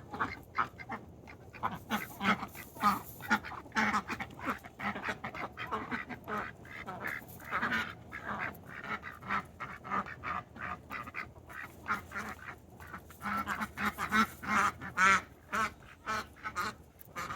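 Domestic ducks quacking over and over: a steady stream of short quacks, several a second, some overlapping.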